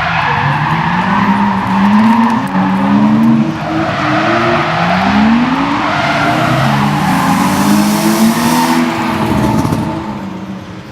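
Drift car sliding with its engine revving hard, the pitch climbing and dropping again and again, over loud tyre squeal; the sound fades near the end.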